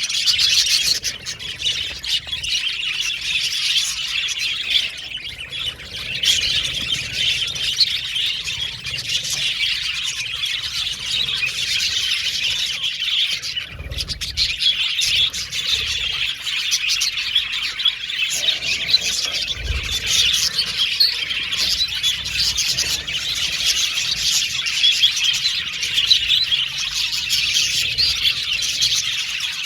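A flock of budgerigars chattering continuously, many birds chirping, warbling and squawking over one another.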